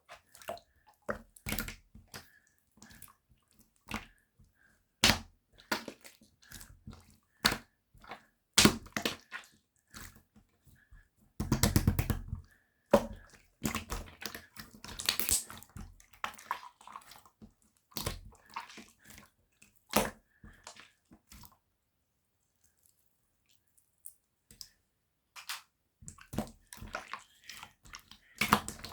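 Clear slime being squished, stretched and poked by hand: irregular wet clicks and squelching pops, with a dense squelching run about twelve seconds in and a quiet stretch of several seconds toward the end.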